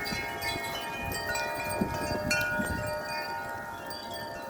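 Several wind chimes ringing together in strong wind, with many tones overlapping and sustaining as new strikes keep coming.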